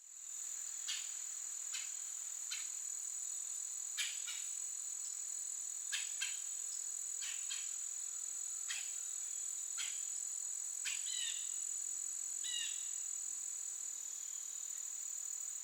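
Insects trilling in one steady, continuous high tone, with scattered short chirps and ticks. Two brief bird-like calls come a second or so apart near the end.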